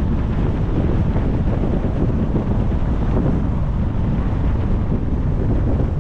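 Steady wind buffeting and road rumble from a moving car, heaviest in the low range and unchanging.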